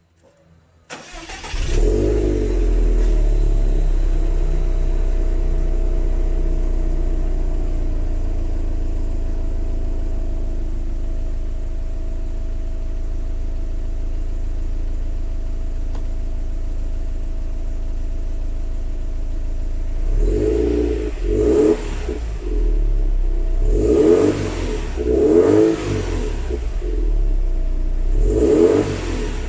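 Subaru WRX turbocharged flat-four starting about a second in through its stock exhaust, revs flaring briefly before settling to a steady idle. In the last third the throttle is blipped about five times, each a short rise and fall in revs.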